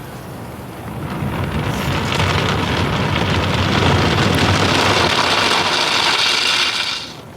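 High-pressure water jets of an automatic car wash spraying the car, heard from inside the cabin as a loud hiss and drumming on the body. It builds about a second in and stops abruptly near the end.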